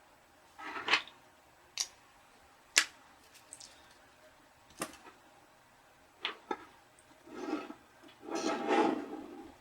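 Small parts of a model locomotive being handled on a workbench: scattered sharp clicks and taps, with short scraping rustles, the longest near the end.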